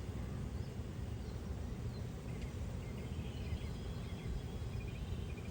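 Steady low outdoor background noise, with a bird's faint high chirps coming in about halfway through and turning into a quick run of short notes near the end.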